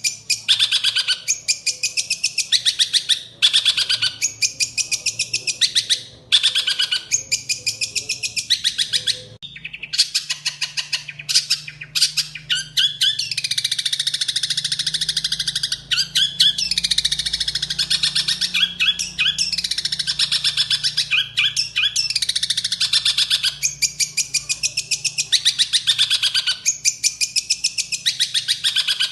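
Songbird song for training caged birds ('masteran'): fast, chattering trills in a run of short bursts, becoming a longer, almost unbroken stretch of song a little past a third of the way in.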